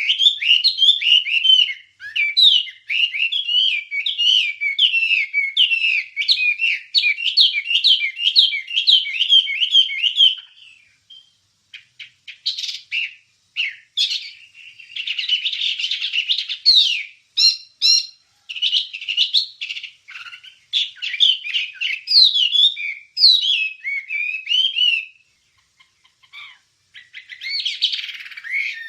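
A wambie songbird singing: a fast run of quickly repeated chirping notes for about ten seconds, then varied whistled and chattering phrases broken by short pauses.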